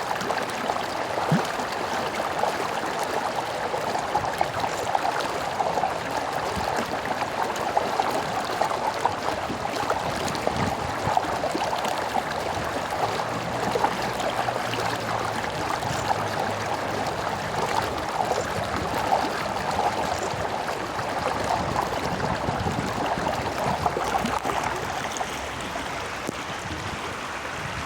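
A small stream running over stones: a steady, busy babble of flowing water.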